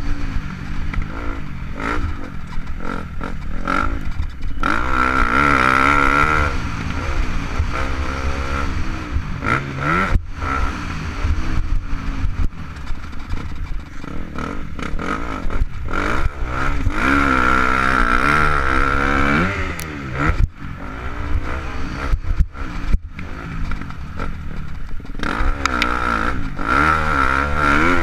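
KTM 250 SX-F four-stroke single-cylinder motocross engine, heard close from a helmet-mounted camera, revving up and dropping off again and again as the rider works the throttle through the corners. Short knocks and clatter break in now and then, with sharp dips in the engine sound.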